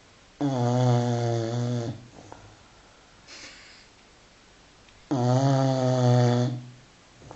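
A five-month-old Continental Bulldog puppy snoring in its sleep: two loud, pitched snores about four and a half seconds apart, each lasting about a second and a half, with a faint breath between them.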